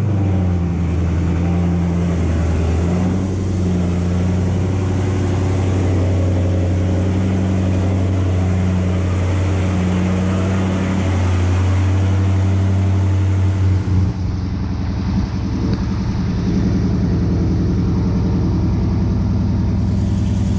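Dodge Charger Scat Pack's 6.4-litre 392 HEMI V8 idling steadily just after being started, on its first run after an oil change. About fourteen seconds in the tone changes slightly.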